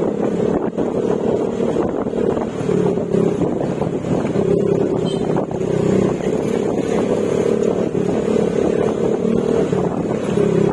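Yamaha Mio Gravis scooter's single-cylinder engine running at a steady cruise through an aftermarket Akrapovic exhaust with silencer, its pitch rising and falling a little.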